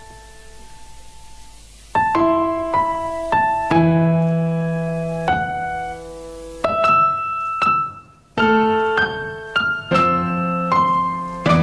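Solo piano playing: single notes and chords struck and left to ring and fade. A held note dies away in the first second, there is a short pause, and the playing resumes about two seconds in.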